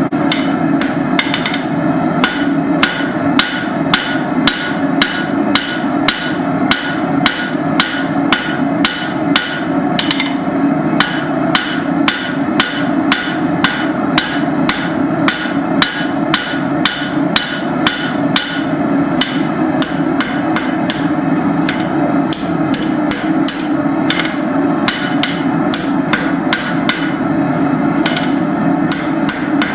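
Blacksmith's hammer striking hot steel on an anvil, a steady run of ringing blows, about three a second, forging steel hooks, over a steady low hum.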